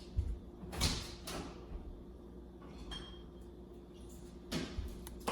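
Kitchen handling sounds: a few light knocks and clatters, the loudest near the start and again near the end, over a faint steady hum.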